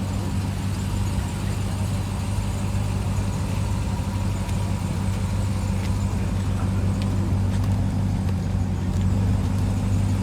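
A car engine running steadily with a low, even drone.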